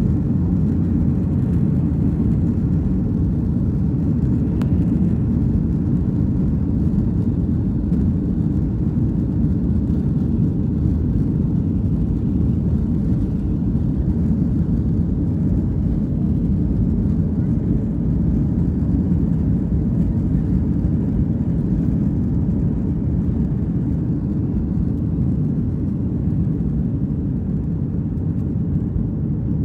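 Steady low rumble of a Boeing 737 airliner's engines and airflow, heard from inside the passenger cabin.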